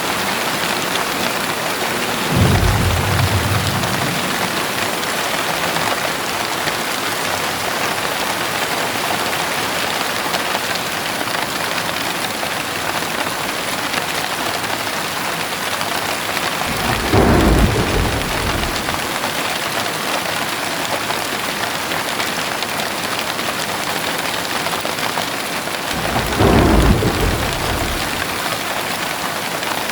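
Heavy rain falling steadily, with three low rolls of thunder: one about two seconds in, one a little past the middle, and one near the end.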